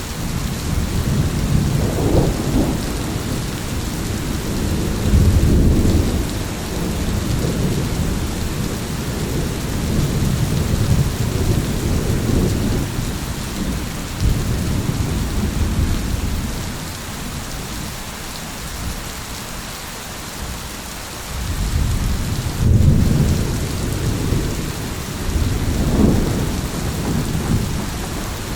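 Steady heavy rain with rolling thunder: several low rumbles swell and fade over the rain, with a quieter stretch in the middle before the thunder builds again.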